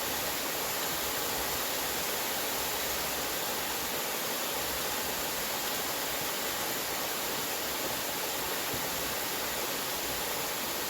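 Steady rush of a waterfall's falling water, an even hiss that neither rises nor falls.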